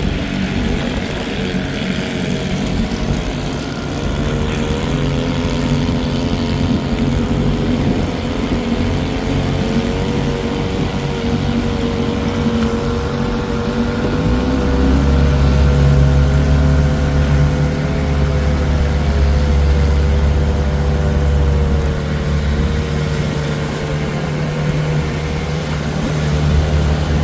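1961 Johnson 20 hp two-stroke outboard motor running steadily under way, its pitch wavering slightly. About halfway through a deeper low rumble comes in and stays.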